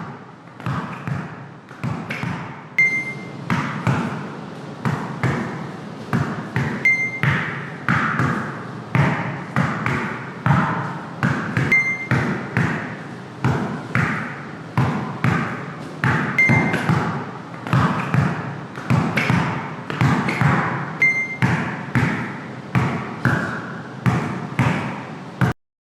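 A basketball dribbled hard on a court floor in a drill rhythm: quick bounces, about two to three a second, bunched with brief pauses as the dribbler changes pace. A short high squeak sounds about every four to five seconds. The sound stops abruptly near the end.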